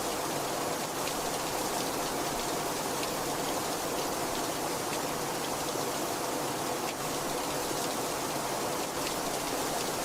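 Heavy rain falling steadily, an even wash of noise with scattered individual drops ticking through it.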